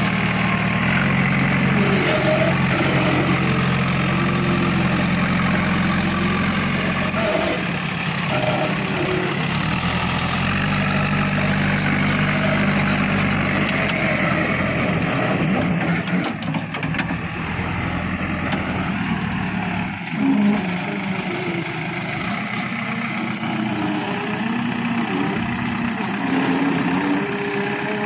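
Diesel engine of heavy construction machinery running at idle with a steady low drone that eases off about halfway through.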